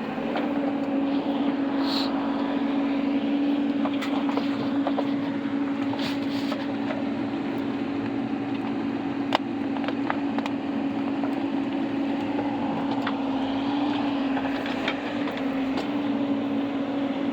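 Excavator engine running at a steady hum while digging, with scattered clicks and knocks from the machine's work.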